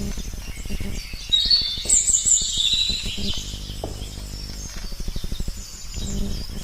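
Birds chirping, loudest from about one to three seconds in, over a run of short clicks and knocks from handling in the woods.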